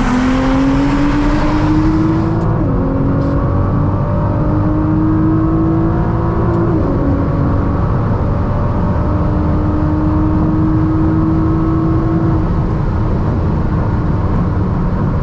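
Twin-turbocharged V6 sports car engine pulling hard through the gears. Its note climbs, drops back at an upshift about two and a half seconds in and again about seven seconds in, climbs once more, and then fades out about twelve seconds in, over a steady low rumble.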